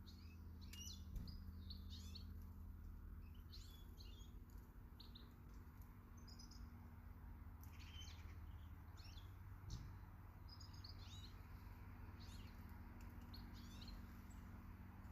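Small garden birds chirping and calling in many short, high notes, with a faint steady low hum beneath. There are two brief soft knocks, about a second in and again near ten seconds.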